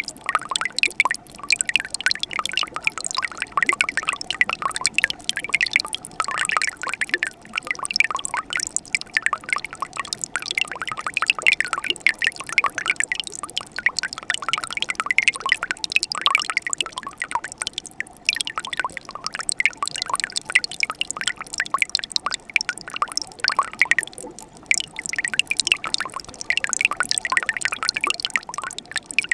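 Winter mountain stream flowing and trickling around ice, a steady busy run of small drips and splashes.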